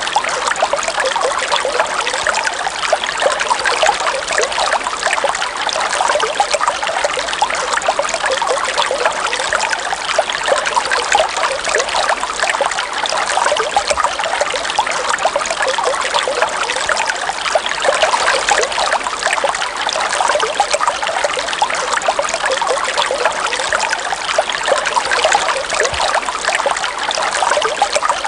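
River water running and trickling steadily, a dense, even patter of small splashes with no change or break.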